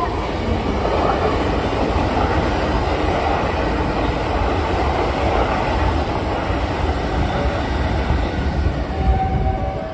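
Hankyu 9000-series electric commuter train running past at close range: a steady rumble of wheels on rail, a little louder about nine seconds in.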